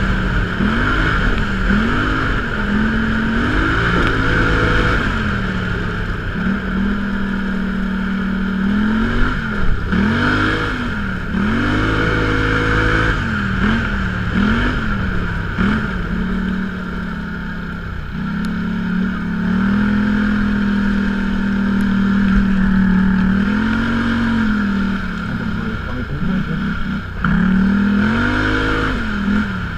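Off-road vehicle engine under way, its pitch climbing and falling repeatedly as the throttle is worked, with a couple of longer stretches held at a steady speed.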